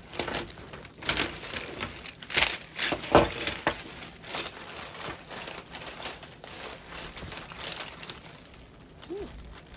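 Crinkling and rustling as the fabric parts of a cat tent bed are handled, with irregular crackles that are loudest around two and a half to three seconds in.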